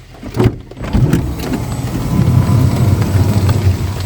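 A vehicle engine running with a low, steady rumble that starts about a second in, after a couple of knocks.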